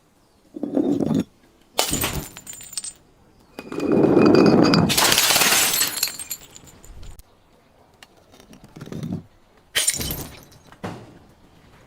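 Glass bottles being smashed: several separate impacts, the biggest about four seconds in, a dull thud followed by a long crash of shattering glass with ringing shards. Smaller breaks come about two seconds in and again near the end.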